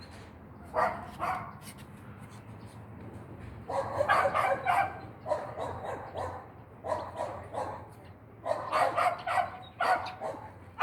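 A dog barking repeatedly in short bursts, some coming in quick runs.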